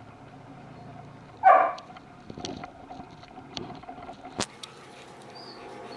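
A French bulldog puppy gives one short yelp about a second and a half in, followed by a few scattered sharp clicks and taps.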